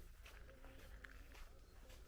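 Quiet outdoor ambience, near silence, with faint footsteps of someone walking and a faint distant voice or call.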